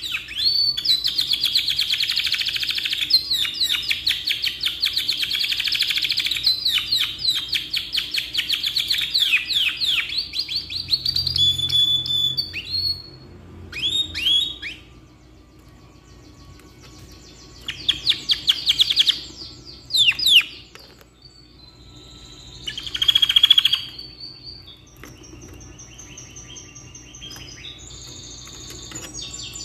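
Domestic canary singing: a long unbroken rolling song of rapid trills for about the first ten seconds, then shorter trilled phrases with pauses between them, and softer high steady whistles near the end.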